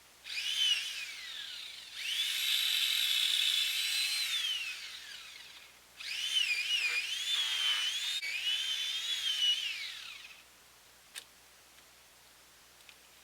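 Chainsaw running in three bursts, its high whine rising and falling in pitch as the throttle and cutting load change. A short click follows near the end.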